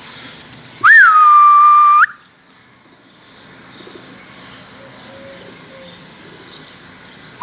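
A single loud, shrill whistle about a second long, starting with a quick upward flick and then held on one steady pitch: a pigeon keeper's whistle to send his pigeons up to fly.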